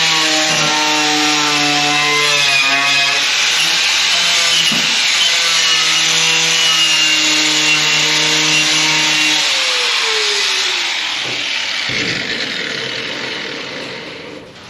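Handheld power grinder running against the rusty sheet metal of a 1962 Chevy C10 cab, its pitch dipping briefly as it bites in. About ten seconds in the tool is released and its motor winds down with a falling whine, stopping a couple of seconds later.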